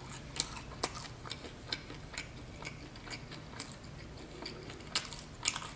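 Close-up chewing of a mouthful of pizza with the mouth closed: soft, irregular wet clicks and smacks, with a couple of louder ones near the end.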